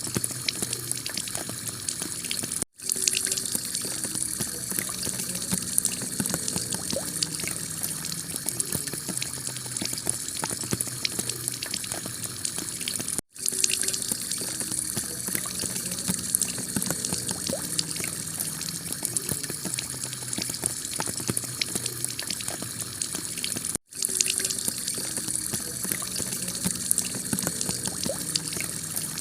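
Heavy rain pelting a clay tile roof: a steady hiss thick with the patter of individual drops. Three times it drops out to silence for a split second, about every ten seconds, where the recording loops.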